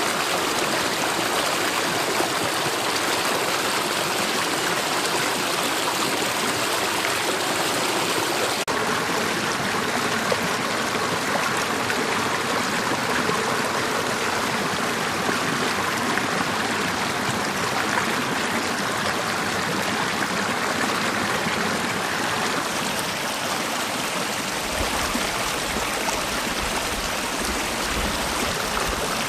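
Mountain valley stream running over rocks: a steady, continuous rush of water. A low rumble joins in near the end.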